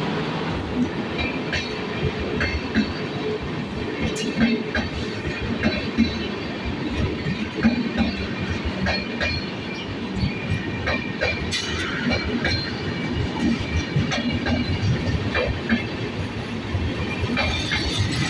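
Express passenger train rolling past, a steady rumble with frequent irregular sharp clicks of wheels going over rail joints.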